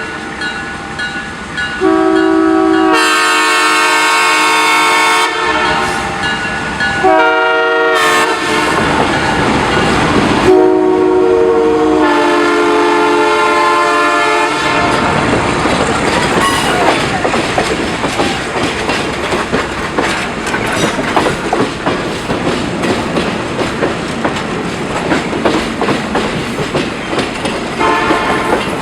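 Diesel locomotive's multi-chime air horn sounded in a series of long blasts, its chord shifting in pitch from blast to blast, for about the first half. After that the train rolls past with its wheels clacking steadily over the rail joints.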